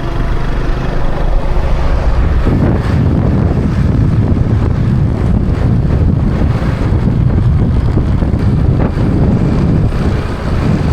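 Heavy wind buffeting on the microphone of a riding motorcycle, with the small motorcycle engine running steadily underneath. The engine's steady hum is clearest for the first two seconds or so, then rougher wind noise takes over.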